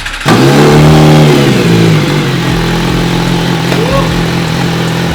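MV Agusta Brutale 1000RR's inline-four engine, breathing through a new Orion titanium aftermarket exhaust with its silencer still fitted, starting up: it catches about a quarter second in, flares briefly, then drops into a steady idle.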